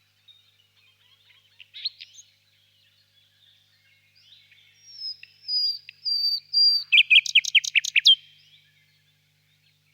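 Nightingale singing: soft twittering, then a few clear whistled notes, then a quick run of loud, falling notes about seven seconds in.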